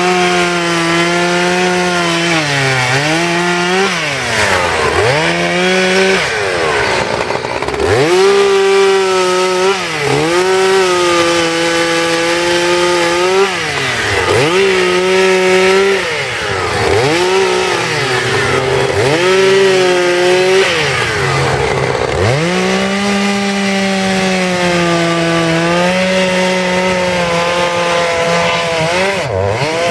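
Two-stroke chainsaw cutting into wood at high revs. Its engine pitch repeatedly sags and climbs back every second or two.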